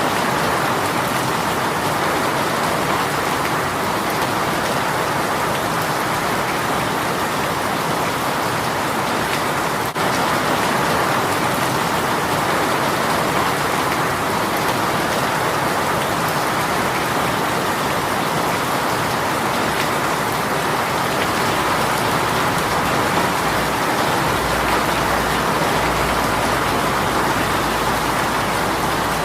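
A heavy, sudden rain shower falling steadily, a dense, even hiss of rain on surfaces. A low rumble sits underneath in the last few seconds.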